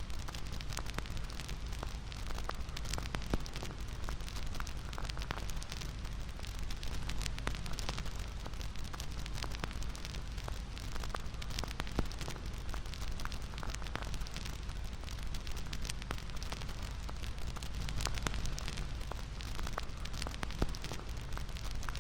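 Bonfire crackling: a steady low rush of burning wood with frequent sharp crackles and pops scattered through it.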